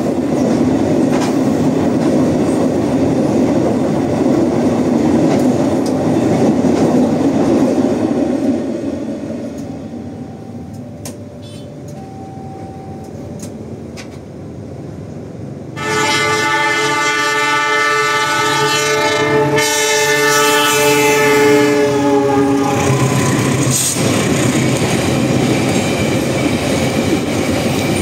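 A train running past, loud for the first eight seconds and then fading away. About sixteen seconds in, a locomotive horn starts suddenly and sounds one long blast of about six seconds over the noise of a train running by, which carries on after the horn stops.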